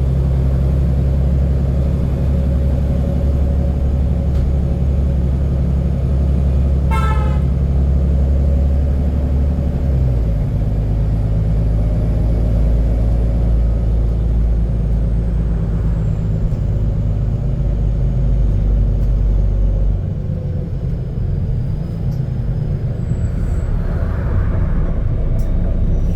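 Double-decker bus engine heard on board, running with a loud, low drone through a burst exhaust. The drone's pitch steps down about ten seconds in, and it eases off and gets quieter about twenty seconds in; a short beep sounds about seven seconds in.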